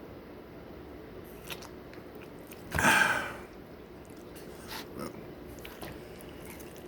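Close-up chewing and biting of food, with small wet mouth clicks. About three seconds in there is one louder, short breathy noise from the mouth.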